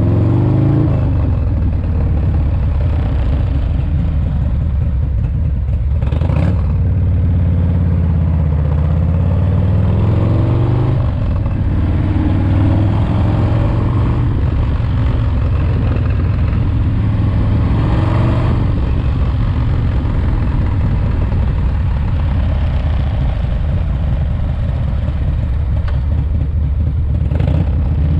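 Freshly rebuilt S&S 107-cubic-inch V-twin in a Harley-Davidson FXRT running on the road during break-in. Engine speed rises and falls through the first ten seconds or so, then holds steady at cruise, with wind noise throughout.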